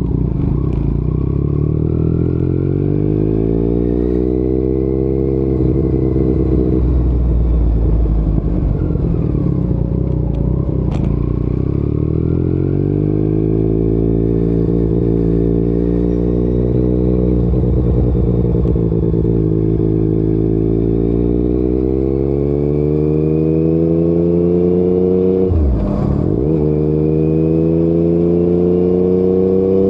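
Yamaha MT-09's three-cylinder engine through an Akrapovic exhaust, ridden on the road. The engine pitch climbs and eases off in long sweeps as the revs rise and fall, with a sharp dip and pickup about 26 seconds in at a gear change.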